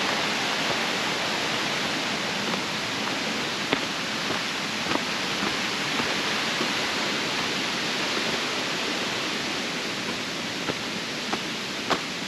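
Steady rush of running water, like a stream or small waterfall. Scattered light taps and clicks come through it, more of them near the end.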